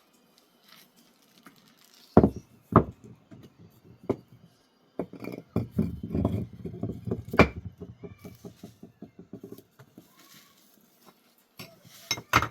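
Hard objects knocking and clinking: a few sharp knocks, then a quick, even run of taps, about ten a second, that stops about two and a half seconds before the end.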